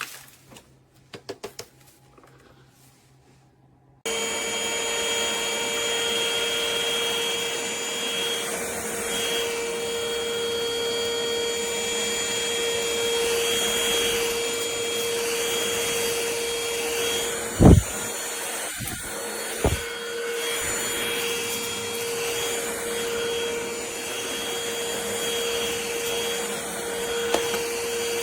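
Trucozie cordless stick vacuum switched on about four seconds in, after a few light clicks, then running steadily with a constant motor whine. Two short, loud knocks come about two-thirds of the way through.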